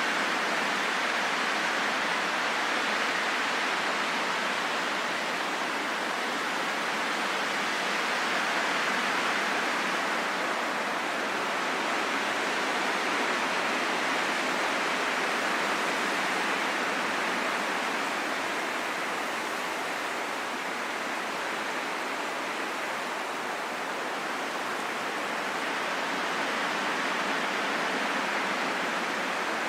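Wind blowing steadily as an even noise, slowly swelling and easing, a little weaker about two-thirds of the way through.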